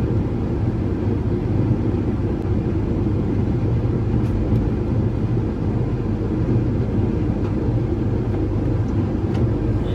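Tractor engine running steadily with the planter's vacuum fan still on, as the planter wings are folded in.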